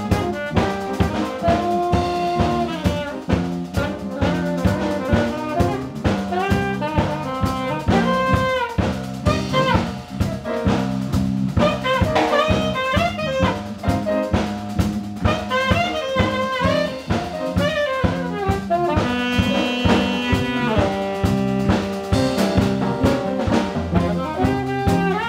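Live jazz quartet playing: saxophone carrying quick runs of notes over piano, bass and drum kit.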